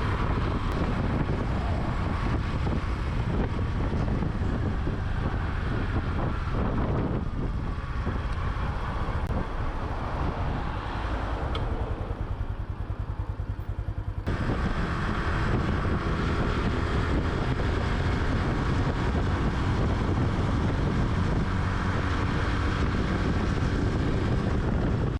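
Honda Super Cub's small single-cylinder four-stroke engine running on the move, with wind noise on the microphone. The sound eases off and quietens a little past the middle, then comes back abruptly at full level.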